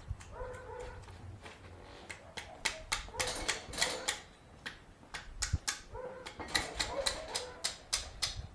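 A dog whining in short, repeated high calls, over irregular sharp clicks and taps.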